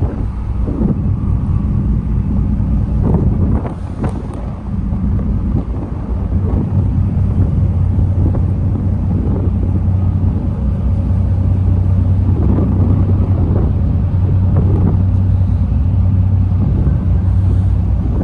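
Steady low drone of the ferry Sea Paseo 2's engines, a constant hum that strengthens about six seconds in, with wind buffeting the microphone in gusts.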